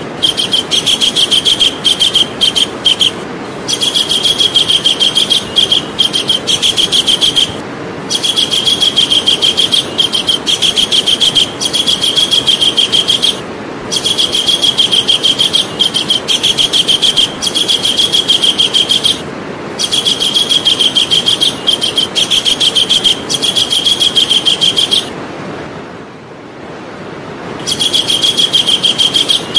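Javan kingfisher giving long, loud, rapid chattering calls in runs of several seconds with brief breaks, and a longer pause about 25 seconds in. A steady hiss sits underneath.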